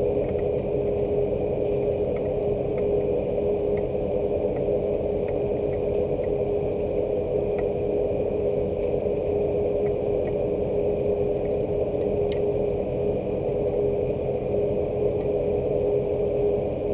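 Steady rain with a constant low mechanical hum underneath, and scattered faint ticks.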